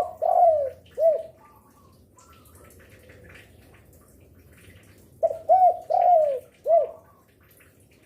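Spotted dove (derkuku) cooing. The end of one coo phrase fades about a second in, and a full phrase of four arched, falling coos follows between about five and seven seconds in.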